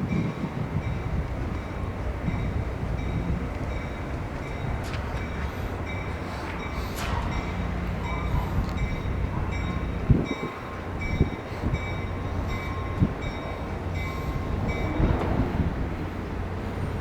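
Caltrain passenger train running past with a steady low rumble, a faint repeating high tone and a few sharp knocks a little after the middle.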